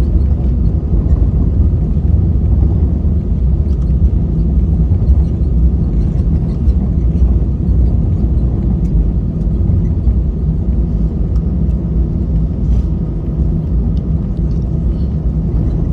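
Airbus A320 engine and airframe noise heard inside the passenger cabin: a loud, steady low rumble with a faint steady hum above it.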